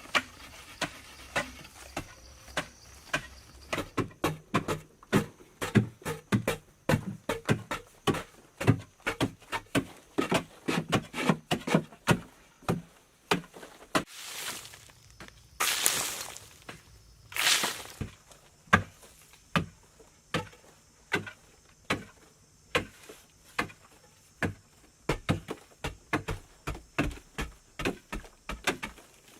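Repeated sharp blows of a hand tool on wood or earth, about two to three strikes a second, with three longer rasping sounds in the middle.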